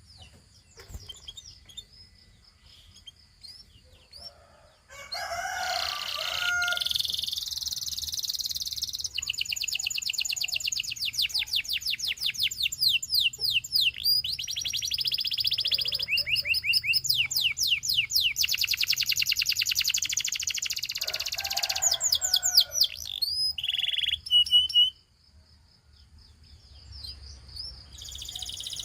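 Gloster canary singing a long song of fast trills, rapid runs of repeated high notes, starting about five seconds in and breaking off suddenly about twenty-five seconds in. There are soft scattered chirps before and after the song.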